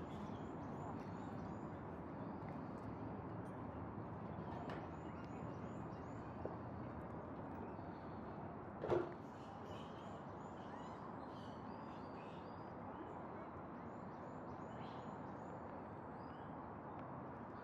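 Birds chirping in repeated quick runs of short high notes over a steady outdoor background noise, with one brief louder call or knock about nine seconds in.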